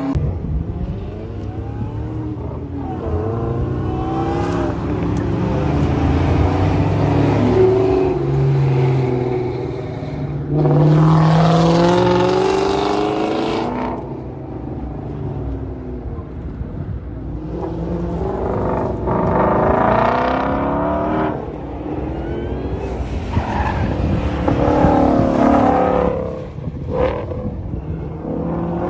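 Car engines revving hard on a race track, pitch climbing and dropping again and again through gear changes.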